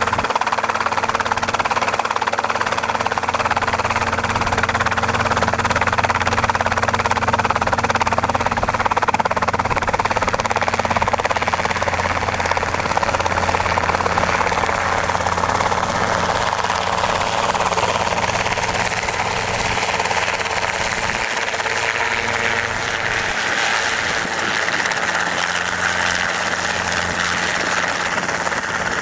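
Robinson R22 helicopter running: steady engine and rotor noise that holds its level, its rushing mid-range shifting higher partway through.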